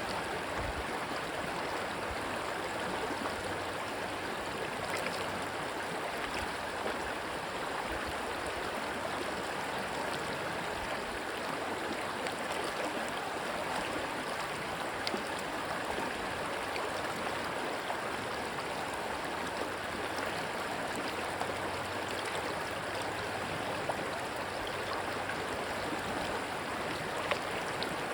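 Rushing stream water running steadily, an even flowing hiss with a few faint short ticks scattered through it.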